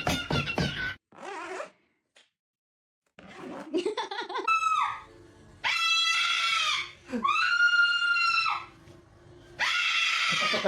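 Parrot screeching: after about a second of music and a short silence, a run of loud calls, including two long screams held at one pitch, ending in a harsh, noisy squawk near the end.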